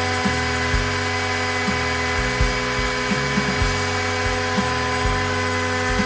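Large DIY CNC router running: a steady high spindle whine over the drive motors, whose low hum changes pitch in steps every half second to a second as the axes start, stop and change direction.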